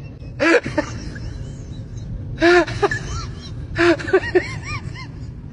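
Short high-pitched animal cries, each rising and falling in pitch, heard once early, once midway and then several in quick succession, over a steady background noise.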